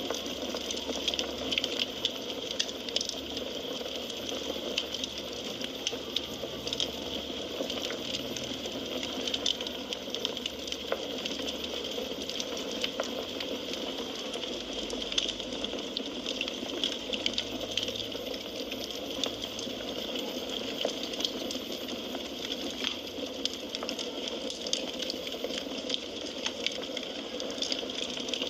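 Firewood burning in a fireplace: a steady hiss of flames with frequent small, irregular crackles and pops.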